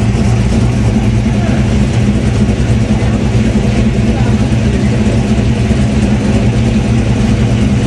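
A car engine running at a steady idle, a loud, even low hum that neither rises nor falls.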